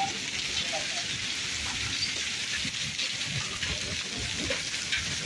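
Rain mixed with small hailstones pattering steadily on wet ground, a dense even hiss of many tiny impacts.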